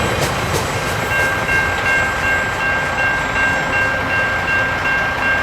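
Freight train wagons rolling past, a steady rumble with a few wheel clicks early on. About a second in, a steady high-pitched ringing tone starts and holds, with a faint pulsing in its upper part.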